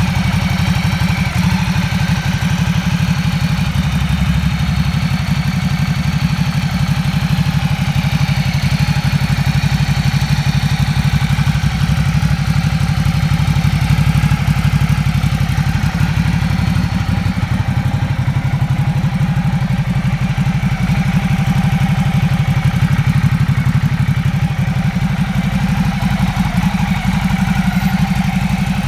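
Ducati Multistrada 1200 S's L-twin (90° V-twin) engine idling steadily, with its rapid uneven pulsing beat.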